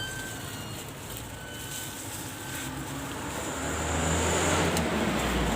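A motor vehicle's engine rumbling past close by, growing louder over the last two seconds.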